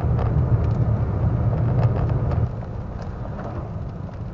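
Car driving, a steady low rumble of engine and tyres with scattered light ticks, easing off somewhat about halfway through.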